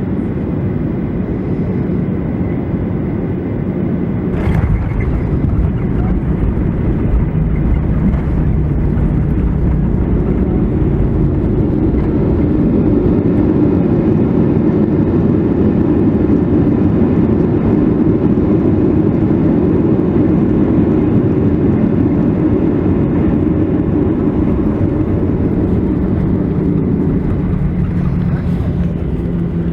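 Cabin noise of a Boeing 737-700 with CFM56-7B engines: a steady rumble and rush of engines and airflow, with a sharp thump about four seconds in. The noise grows louder from about twelve seconds and eases near the end, when a steady engine hum comes up.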